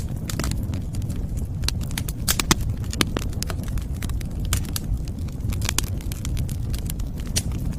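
Wood fire crackling: frequent sharp pops and snaps over a steady low rumble, with a few louder pops about two and a half and three seconds in.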